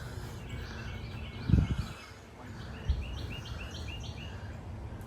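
Wild songbirds calling, with a quick run of about six high chirps near the end. A short low thump about a second and a half in, over a steady low rumble.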